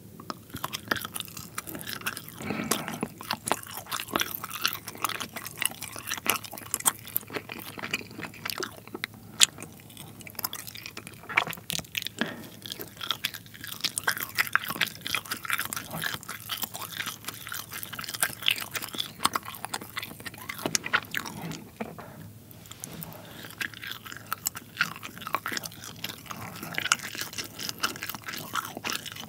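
Close-up chewing of soft, rubbery rainbow-coloured pull-apart cheese, with a dense, irregular run of wet mouth clicks and squishes and a short lull about two-thirds of the way through.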